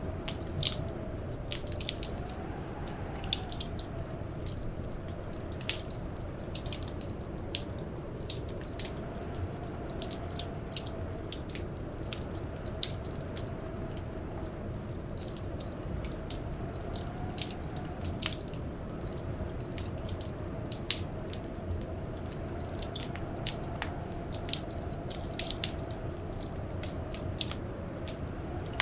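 Wood fire crackling in a fireplace, with irregular sharp pops and snaps over a steady low rumble of the flames. Behind it, a faint wavering howl of blizzard wind swells briefly a couple of times.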